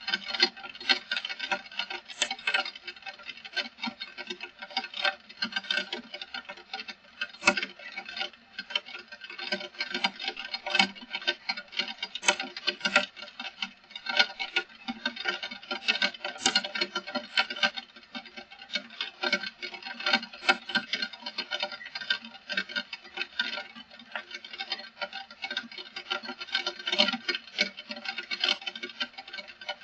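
Heavy rain pattering, a dense, irregular stream of drops striking throughout.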